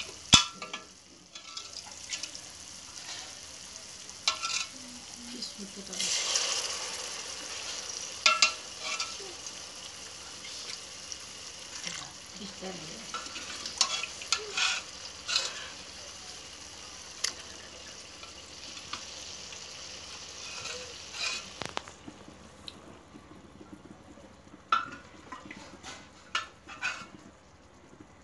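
Curry masala sizzling and frying in oil in a metal pot, with a metal spoon stirring and clinking against the pot now and then. The sizzle eases off about 22 seconds in.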